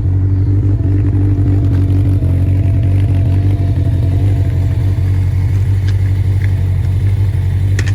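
1984 Honda Nighthawk motorcycle engine running at a steady, low, even pitch.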